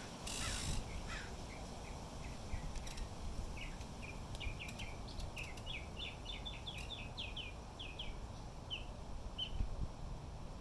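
Small birds chirping in a run of short high notes, sparse at first, coming thick and fast in the middle and tailing off near the end, over a steady low rumble of wind on the microphone.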